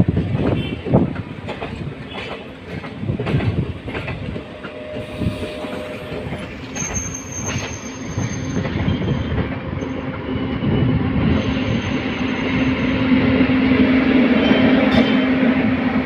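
Electric-hauled express passenger train running past, its wheels clattering in repeated knocks over the rail joints. A few brief high wheel squeals come around the middle, then a steady low hum builds and grows louder toward the end.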